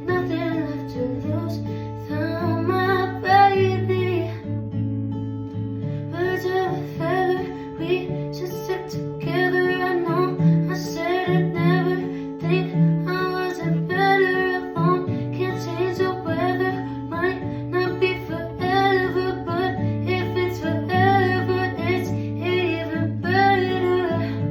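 Acoustic guitar strummed in a steady rhythm, with a voice singing along without clear words, playing a cover of a pop ballad.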